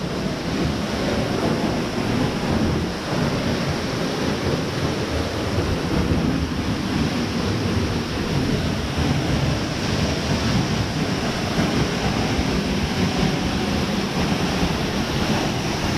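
Summerhill Force waterfall: a steady, unbroken rush of falling water.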